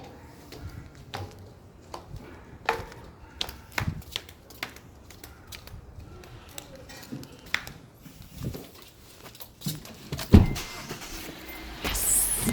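Scattered knocks, clicks and rustles of a phone being handled and carried, with one loud low thump about ten seconds in.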